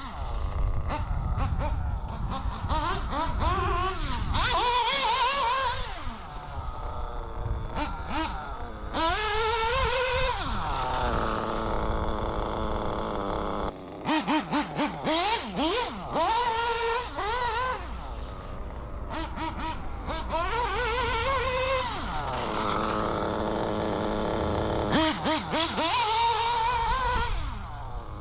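Ielasi Dirt nitro engine in an RC car revving up and down over and over as the car is driven, its pitch climbing high and falling back each time. About halfway through it gives a run of short throttle blips.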